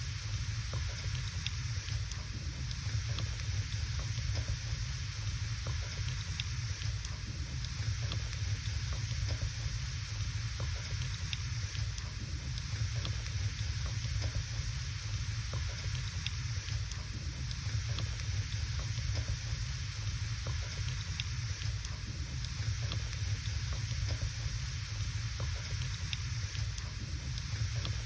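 Wood fire burning in a fireplace: scattered small crackles and pops over a steady hiss and low rumble.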